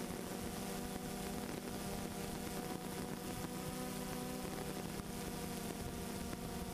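Steady buzzing whir of a multirotor drone's motors and propellers, holding one pitch.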